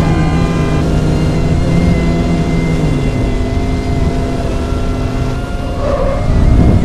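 Car engine running loudly and steadily, revving up about six seconds in.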